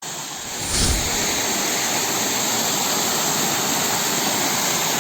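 Waterfall: a steady rush of falling water, with a brief low bump about a second in.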